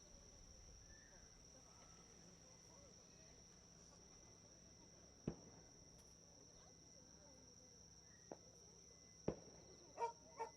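Faint, steady, high-pitched trill of night insects, with a few short, sharp knocks or pops in the second half.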